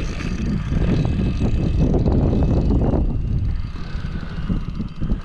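Wind buffeting the microphone on an open boat: a loud, uneven rumble that eases off a little past the middle.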